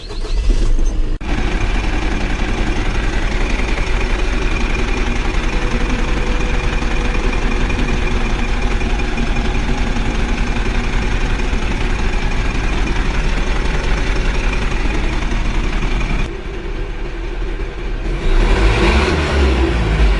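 Vehicle engine running steadily, dipping briefly about sixteen seconds in and then getting louder again, as if revving.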